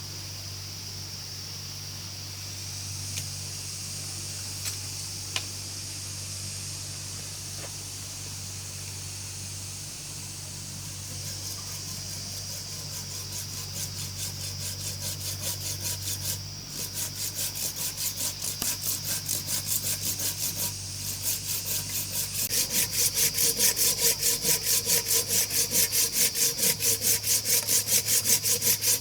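Wood being hand-sawn with quick, even back-and-forth strokes that begin about twelve seconds in and grow louder partway through. Before that there is a steady background hum with a few light knocks.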